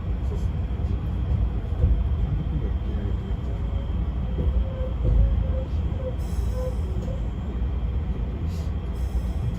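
Izukyu 2100 series electric train heard from inside the carriage while running: a steady low rumble of wheels on rails, with a faint wavering tone about halfway through.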